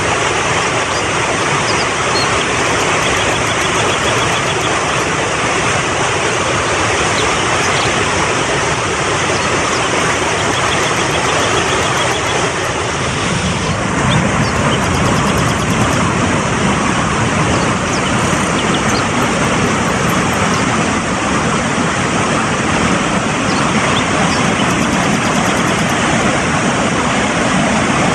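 Fast-flowing mountain stream rushing steadily over rocks, with a deeper low rush coming in about halfway through.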